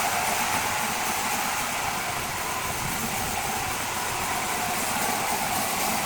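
A large machine running steadily with an even, unbroken mechanical noise.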